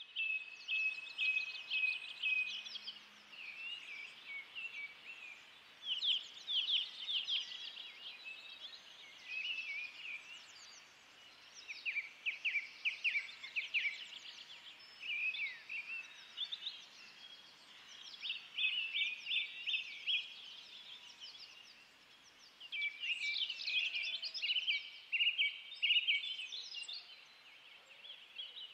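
Small songbirds singing outdoors: phrases of rapid, high chirps and trills that recur every few seconds, with short gaps between them, over a faint steady background.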